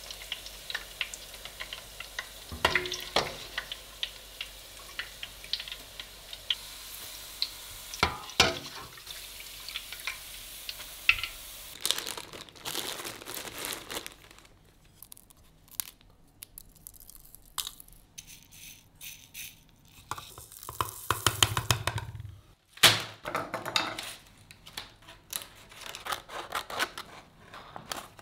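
Deep-fried corn ribs sizzling in hot oil as they are lifted out with a metal skimmer, with light clinks of metal on the pot; the sizzle stops about twelve seconds in. Then a plastic bag crinkles as dried ingredients are tipped into an electric spice grinder's cup, and near the end kitchen scissors snip through a sheet of dried seaweed.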